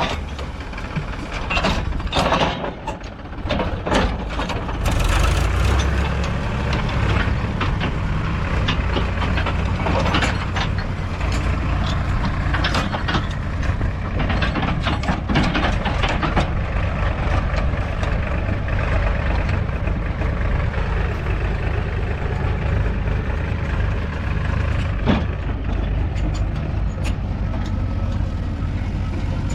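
Heavy diesel engine of a JCB 3DX backhoe loader running steadily. A burst of sharp knocks and clatters comes in the first few seconds, and a single sharp knock near the end.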